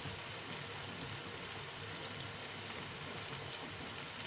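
Stew cooking in oil in a pan, left on the heat: a steady sizzling hiss with faint crackles.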